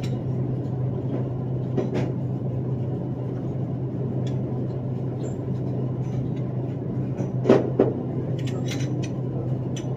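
Steady low hum of the indoor range's room noise, with two sharp bangs in quick succession about seven and a half seconds in.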